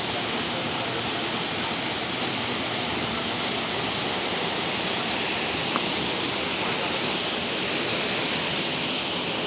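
Waterfall rushing: a steady, unbroken noise of falling water, with one small click about six seconds in.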